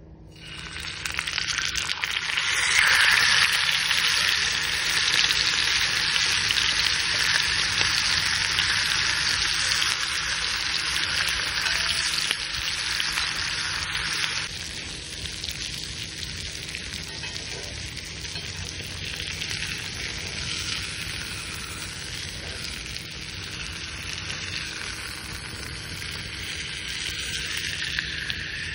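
Thick-cut steak searing over a wood fire: a dense sizzle that starts suddenly, stays loudest for the first half, then drops to a quieter, steady sizzle about halfway through.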